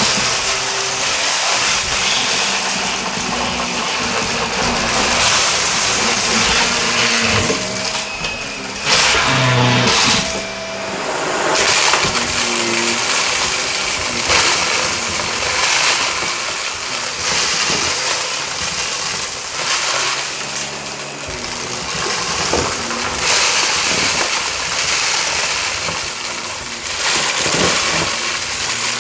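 Shark vacuum cleaner running and pushed quickly back and forth over carpet, its loudness swelling and dipping with the strokes, with crunchy crackling and clinking as grit and debris are sucked up.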